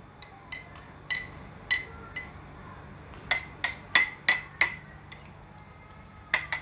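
A spoon stirring tea in a cup, clinking against the sides in a run of irregular ringing taps, most of them close together in the middle of the stretch.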